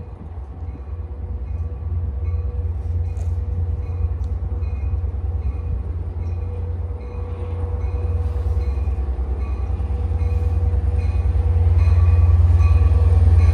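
Long Island Rail Road commuter train approaching on the Main Line, its low rumble and steady hum growing louder as it nears.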